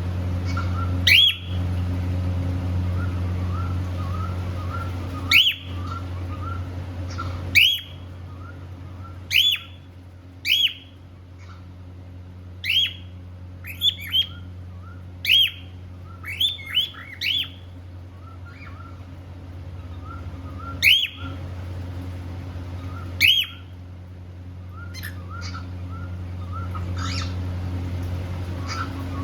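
Cockatiel giving short, sharp rising chirp calls, about a dozen spaced irregularly, with softer little chirps between them. A steady low hum runs underneath.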